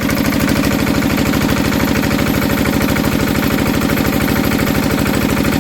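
Old Enfield stationary diesel engine running steadily after a hand-cranked cold start, with a fast, even firing beat. Its governor is set at about 1800 rpm, which the owner thinks is fast for the engine.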